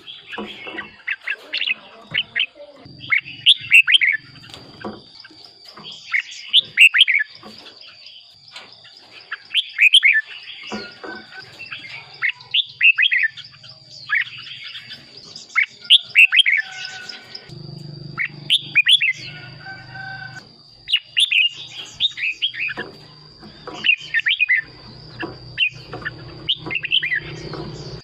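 Red-whiskered bulbuls singing: short, bubbly whistled phrases repeated every second or two. A thin steady high whine runs underneath, and a faint low hum comes and goes.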